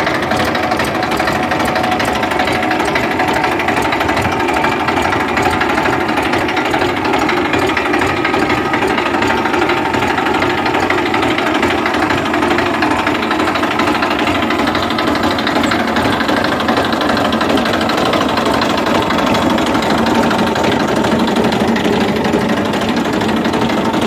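Tafe 7250 DI tractor's diesel engine running steadily with a fast, even clatter.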